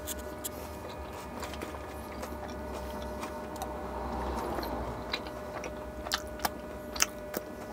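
Close-up chewing of a mouthful of chicken curry with the mouth closed: wet mouth clicks and smacks, a few sharp ones near the end, over a steady hum.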